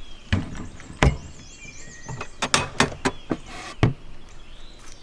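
A series of sharp wooden knocks and clunks, about eight of them, bunched in the middle, as the parts of a wooden beehive storage cabinet are handled and set back in place. Birds chirp faintly behind.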